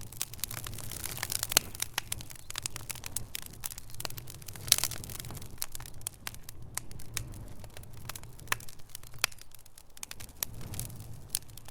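Wood fire burning in a fireplace, crackling and popping irregularly over a low steady rumble of the flames. A sharper pop stands out a little before the halfway point.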